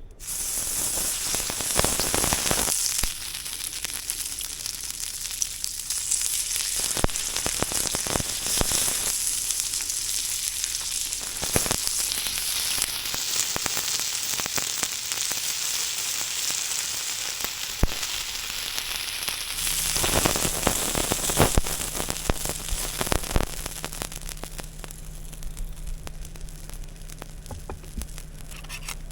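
Food sizzling in a hot pan, a dense steady hiss with scattered pops and crackles. A low steady hum joins about two-thirds of the way through.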